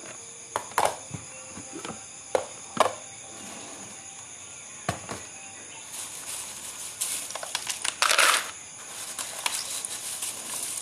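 Kitchen handling sounds from snack-making: scattered sharp clicks and knocks, then short bursts of rustling or crinkling, the loudest about eight seconds in. Underneath is a steady high chirring typical of crickets.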